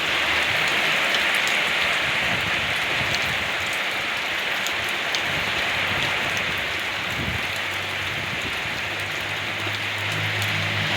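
Steady rain falling on a surface: a dense, even hiss with scattered drop ticks. A low hum comes in near the end.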